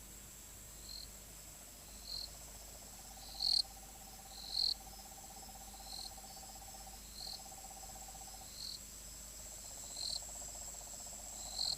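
Night chorus of tropical forest insects: a steady high-pitched trill, short chirps repeating about once a second, and a lower pulsing trill from about three seconds in until near the end.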